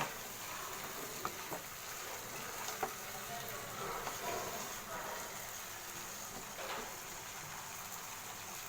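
Chicken in a spicy tomato–soy masala sizzling steadily in a pan as it is sautéed, with a few light clicks of a spatula against the pan.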